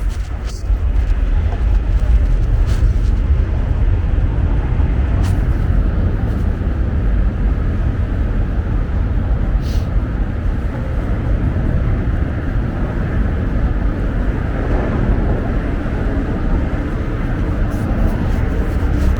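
Wind buffeting the microphone in a snowstorm: a steady, loud, deep rumble with a rushing hiss above it.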